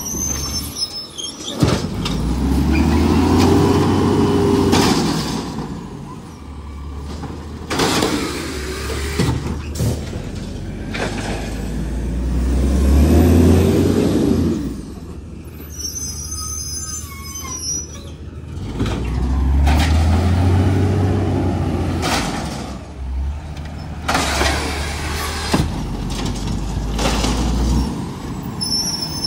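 Garbage truck working: its engine revs up and falls back three times, each time with a rising and falling whine, and air hisses between the revs.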